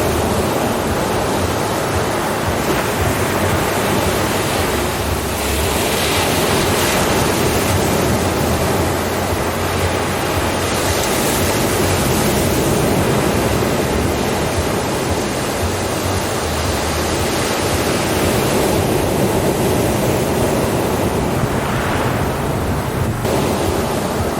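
Ocean surf: waves breaking and washing in a continuous rush, swelling louder every several seconds, with some wind noise on the microphone.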